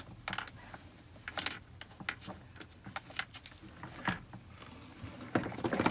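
Scattered light clicks, taps and plastic rattles from handling a car door trim panel while getting a stuck screw out, with a cluster of louder knocks near the end.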